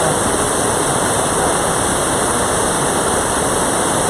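Mountain valley stream, its water rushing steadily.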